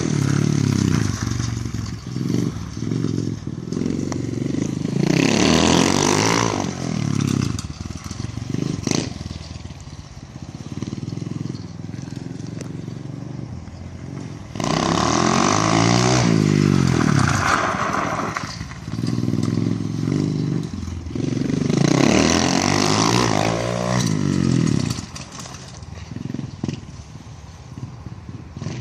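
Dirt bike engine revving up hard three times, each time dropping back to a lower, quieter running in between.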